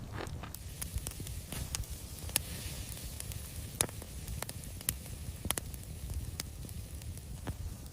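Cooking fire crackling, with irregular sharp pops scattered through it over a low steady rumble.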